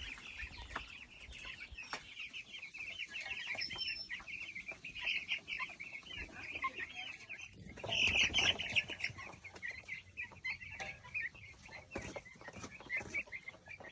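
A flock of about fifty three-week-old Cornish Cross meat chicks peeping continuously in short, high chirps, with a louder stretch about eight seconds in.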